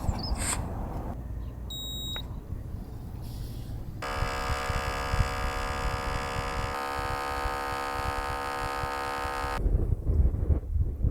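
OutIn portable espresso machine's pump buzzing steadily for about five and a half seconds while brewing, shifting pitch slightly partway through, preceded about two seconds in by a short high beep. Wind rumbles on the microphone.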